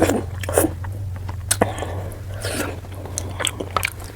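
Close-miked eating of fish curry with rice: wet chewing, lip smacks and small irregular clicks from the mouth, over a steady low hum.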